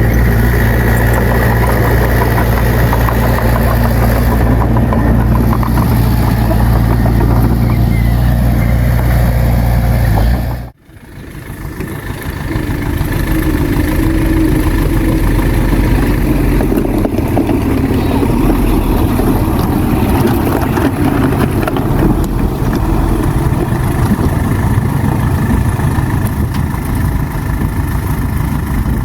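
Heavy diesel earthmoving machine engine running steadily. About eleven seconds in the sound cuts out abruptly, then builds back up over a couple of seconds to a steady engine noise with a different, less bassy tone.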